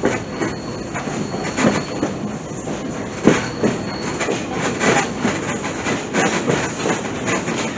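Passenger train rumbling along the rails, with irregular clanks and knocks from the wheels and car. A faint thin squeal runs under it and stops about halfway through.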